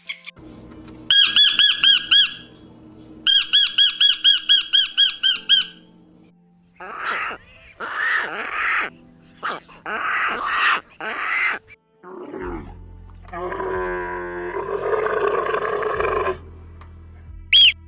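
A series of different animal calls: two runs of fast, evenly repeated high chirps, then several harsher rasping calls, then one longer pitched call, over faint background music.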